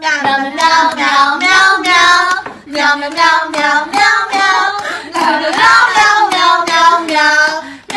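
A high voice singing a wavering, rhythmic tune in short phrases, with no clear words.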